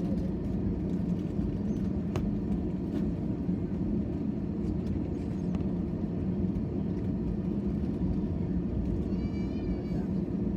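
Steady low drone inside an airliner cabin, from the jet engines and the ventilation, with a few faint clicks and a brief faint wavering high tone near the end.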